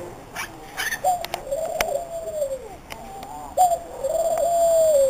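Pet dove cooing: a short rising note then a long held coo that drops at its end, repeated about every two and a half seconds. A few short sharp chirps and a click sound in the first two seconds.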